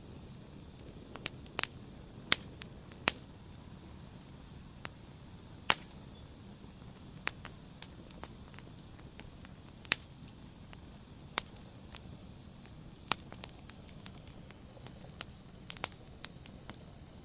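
Wood fire in a fireplace crackling: a low steady hiss of burning with sharp, irregular pops and snaps from the logs every second or so.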